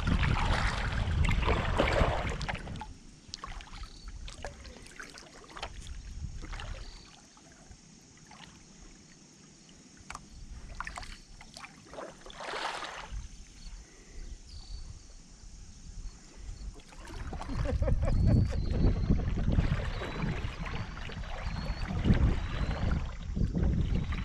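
Kayak paddling on a shallow river: paddle blades dipping and splashing water in scattered strokes, with a low rumbling noise on the microphone at the start and again from about two-thirds of the way through.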